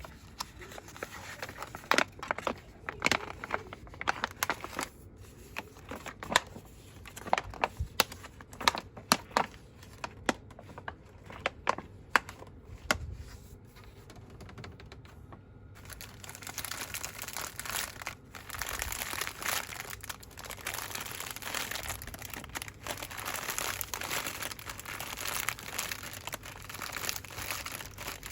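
Packaging rustled and crinkled by hand. For about the first half there are separate sharp crinkles and taps. From about sixteen seconds in it becomes fast, continuous rustling.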